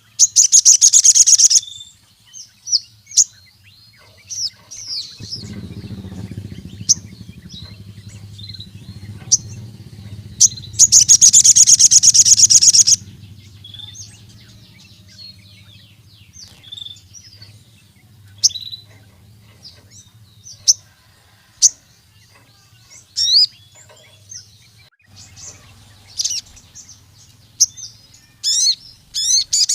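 Sogon, a sunbird, singing. Two loud, rapid, high-pitched bursts of song come about a second in and about eleven seconds in, with short sharp chirps scattered between them. A low hum runs underneath from about five seconds in.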